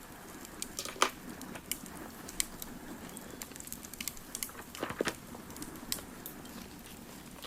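Wood fire crackling, with irregular sharp pops over a steady low rush; the loudest pop comes about a second in, and a small cluster of pops follows around five seconds in.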